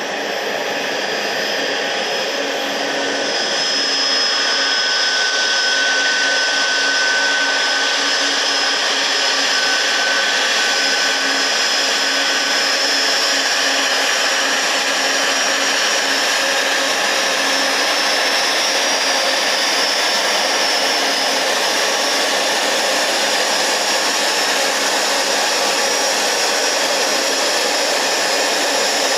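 Jet engines of a Boeing 737 MAX 8 running at taxi power: a steady whooshing rush with a faint high whine, growing a little louder about four seconds in.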